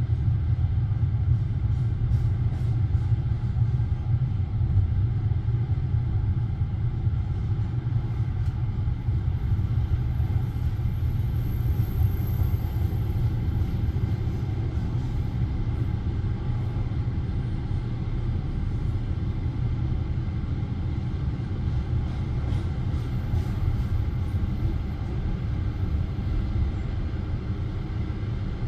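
Steady low rumble of a passenger railway carriage, heard from inside the coach.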